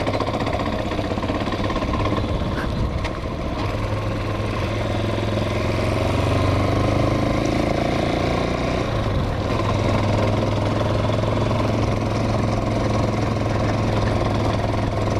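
Hawk 250 dual-sport motorcycle's single-cylinder engine running steadily at low riding speed, its pitch rising and falling a little in the middle.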